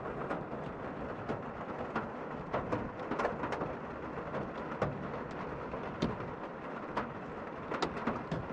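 Heavy rain drumming on a van's roof: a steady hiss of rain with many irregular, sharp drop taps.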